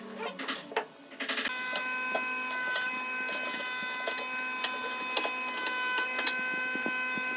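A few sharp knocks on wood, then from about a second and a half in a power tool runs with a steady whine while sharp clicks and knocks sound over it. It cuts off suddenly near the end.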